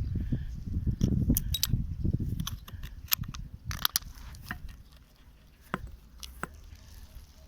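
Low rumble for the first couple of seconds, then scattered sharp clicks and clinks, like hard objects or tools being handled.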